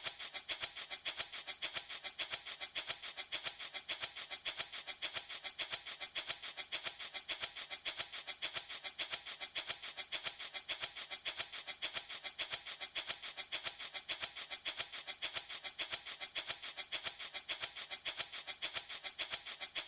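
Handmade wooden baby rattle shaken in a steady, even rhythm of several shakes a second: a bright, hissy clatter that keeps going without a break.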